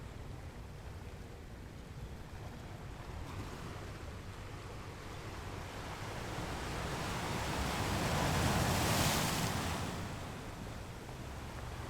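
Ocean surf against rocks: a steady low rumble of sea, with one wave building and breaking loudly about nine seconds in, then washing back.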